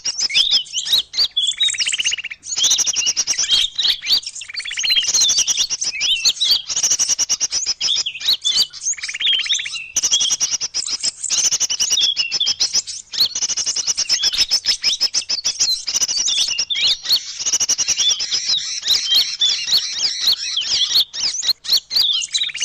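Bird-lure recording of small songbirds: dense, rapid, high-pitched chirping and twittering, with a lower call returning every few seconds.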